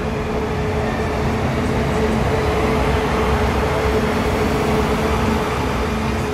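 Class E 10 electric locomotive, E10 1239, passing close along the platform, followed by its vintage passenger coaches, with a steady hum over the rolling noise.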